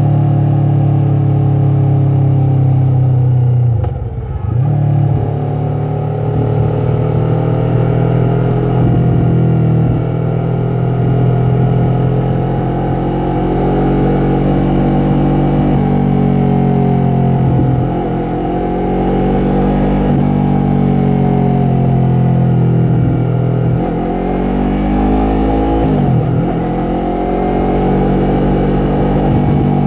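Yamaha MT-03's parallel-twin engine and exhaust under way, engine speed rising and falling as the rider works the throttle. The note drops sharply and picks up again three times, about four seconds in, near the middle and near the end, as with gear changes.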